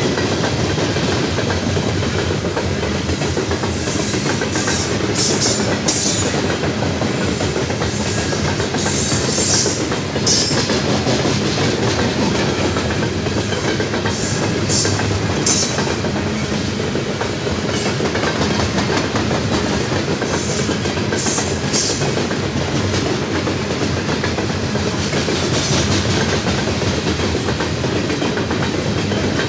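Loaded coal hopper cars rolling past close by at a steady speed, their steel wheels rumbling and clicking over the rail joints. Brief high-pitched bursts of noise come now and then.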